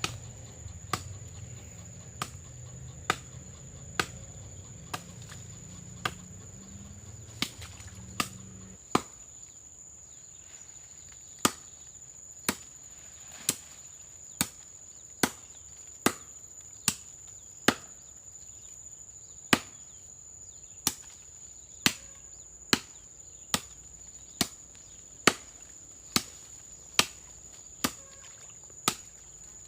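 Repeated chopping strokes of a blade into wood, about one a second with a short pause about nine seconds in, over the steady high buzz of crickets or other insects.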